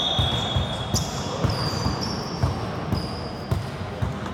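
Basketballs bouncing on a gym floor, many overlapping thumps at an uneven pace, with a few short high squeaks.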